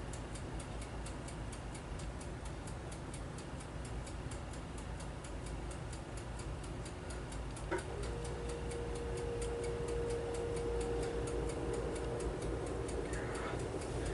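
Steady, rapid, faint mechanical ticking, about four ticks a second. About halfway through there is a click, then a faint steady hum.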